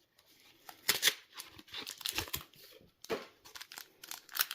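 Foil wrapper of a Yu-Gi-Oh booster pack crinkling and tearing as it is opened by hand, in irregular crackles.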